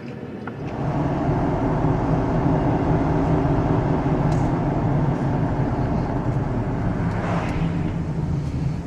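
Ford F-250 pickup's engine pulling away, building up over the first second, then running at a steady drone and easing off slightly near the end.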